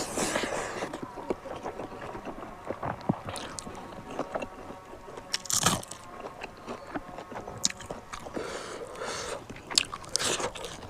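Close-up mouth sounds of eating: chewing and biting with scattered wet clicks and smacks, and a few louder bites or smacks in the second half.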